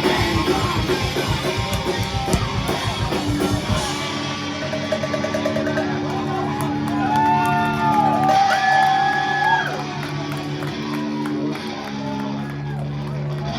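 Live rock band playing loud, with heavy drums for the first few seconds; then the drums stop, leaving held guitar chords with sliding higher guitar notes over them.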